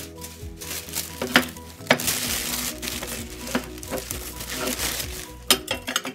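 Food sizzling in a pan with clicks of a utensil stirring, over soft background music.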